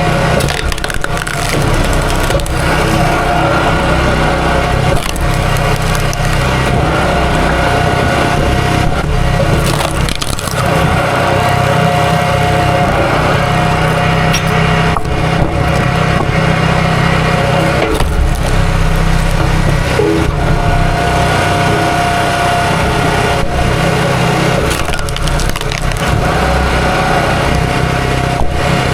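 A small gasoline engine running steadily, with repeated cracking and splintering of wood over it.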